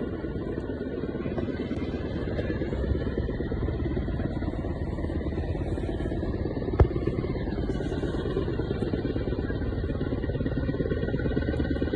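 Helicopter rotors beating in a rapid, steady pulse, with one sharp click about seven seconds in.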